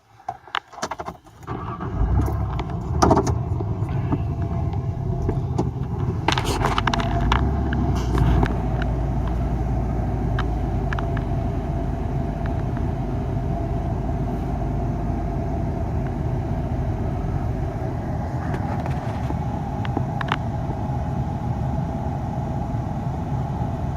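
A vehicle driving, heard from inside: a steady low rumble of engine and road noise. Over the first several seconds there are scattered clicks and knocks, with a louder knock about three seconds in and a cluster of them around six to eight seconds.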